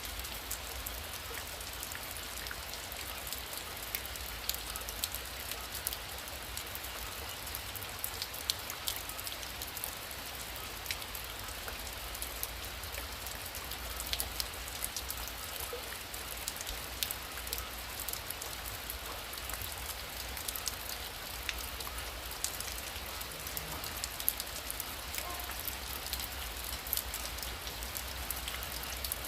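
Heavy rain falling steadily, with many individual drops ticking sharply over a constant hiss.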